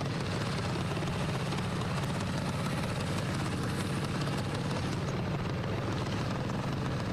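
Racing lawnmower engines running steadily together, a continuous even drone.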